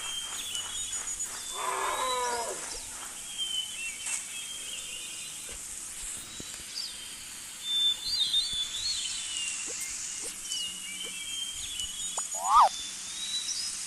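Birds chirping with short high calls throughout, over a faint outdoor background. About two seconds in an animal gives one short pitched call, and near the end there is a short call that rises in pitch.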